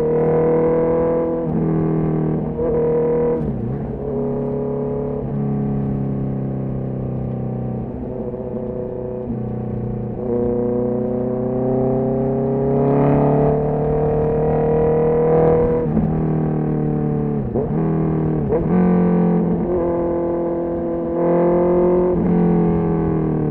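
Honda CB650R's inline-four engine and exhaust under way, the revs rising and falling: a long steady climb in pitch about halfway through, and several quick drops where the revs fall, as at gear changes.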